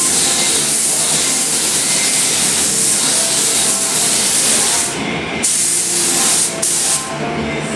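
Air spray gun spraying automotive primer: a long steady hiss that stops about five seconds in, then two shorter bursts of about a second and half a second as the trigger is pulled again.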